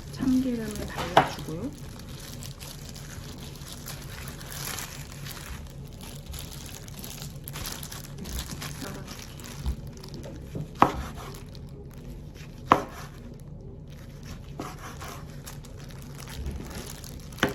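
A few sharp knocks of kitchen utensils against a hard surface, one about a second in and two more near the end, over a steady low background noise. A brief voice sound comes near the start.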